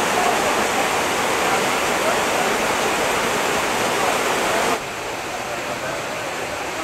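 Waterfall rushing: a steady, loud roar of falling water that drops suddenly to a quieter level about five seconds in.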